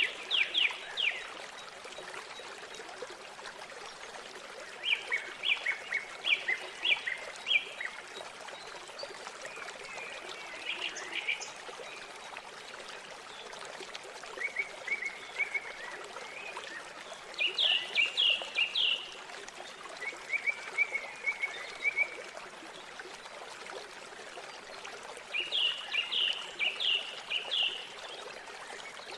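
River water flowing steadily, with a songbird singing short phrases every few seconds, each a quick run of four to seven descending notes.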